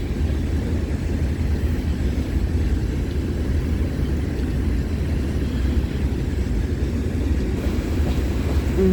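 Steady low rumble of a freight train rolling past, muffled from inside a car.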